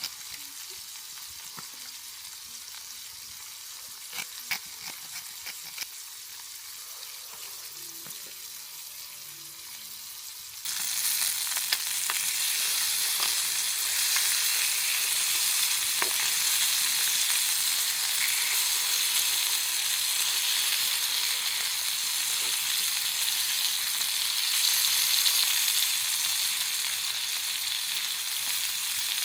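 Slices of samgyupsal pork belly sizzling as they fry. The hiss is quieter at first, with a few light clicks, then jumps suddenly louder about ten seconds in and stays steady.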